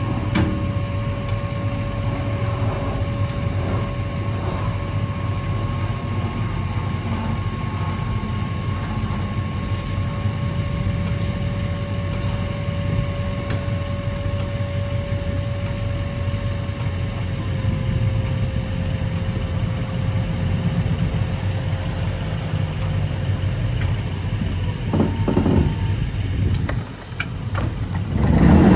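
A vehicle engine running steadily, a low rumble with a steady whining tone over it. A few knocks come near the end.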